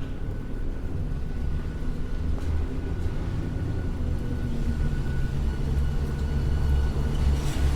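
Low rumble of a passing heavy vehicle on a city street, building gradually louder, with a faint steady high tone above it.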